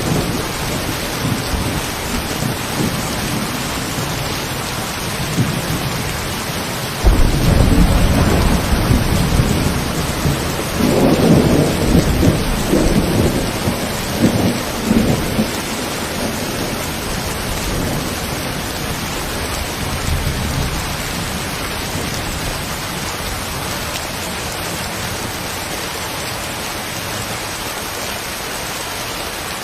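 Steady heavy rain with a deep rumble of thunder that breaks in suddenly about a quarter of the way in, rolls on for several seconds and dies away past the middle.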